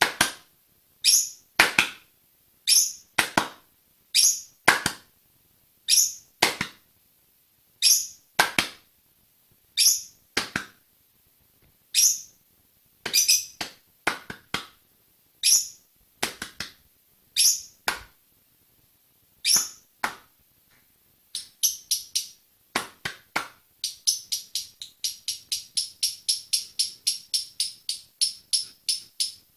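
Pet parrot calling in short, sharp whistles that fall in pitch, mostly in pairs about every two seconds. About two thirds of the way through they change to a fast run of high chirps, several a second.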